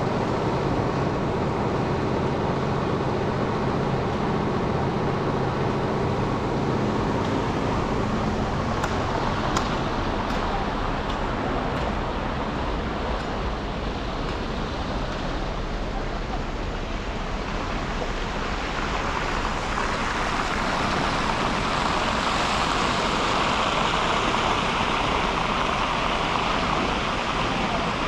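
Road and traffic noise from a car driving on snow-covered city streets: a steady low engine hum, a few light clicks about nine to twelve seconds in, and a louder hiss of tyres on the wet road building in the last third.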